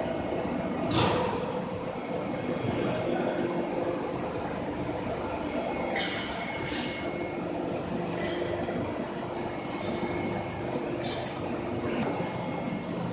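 IGBT induction heating furnace running, with a steady high-pitched whine over industrial machine noise and a few short noisy bursts.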